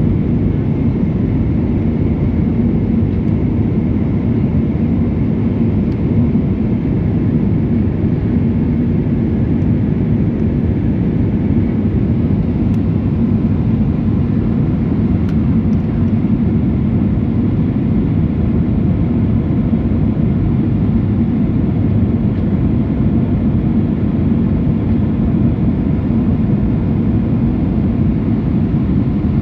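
Inside the cabin of an Airbus A319 in flight: the steady, loud rumble of the jet engines and rushing air, with a constant low hum running under it.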